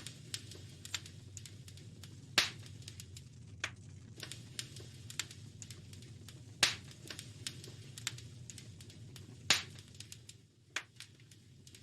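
Wood fire crackling in a fireplace: a stream of small irregular snaps and pops, with three louder pops about 2.5, 6.5 and 9.5 seconds in, over a low steady rumble.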